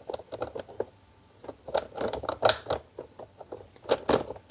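New Oregon saw chain being fitted by hand over the drive sprocket and bar of a Greenworks electric chainsaw: loose metal chain links clicking and clattering irregularly, busiest around two seconds in and again near four seconds.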